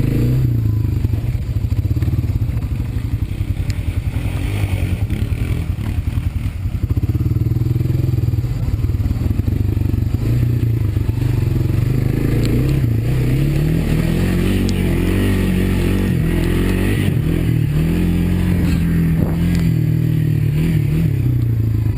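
Honda ATV's single-cylinder four-stroke engine running while riding a muddy trail, its pitch rising and falling with the throttle, with clatter and scraping from the machine.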